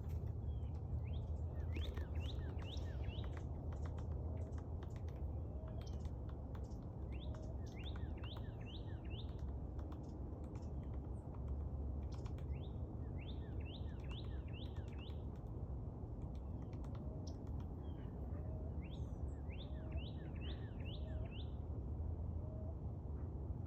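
Starling calling in repeated runs of four or five quick, sharp chirps, each run a few seconds apart, over a steady low rumble.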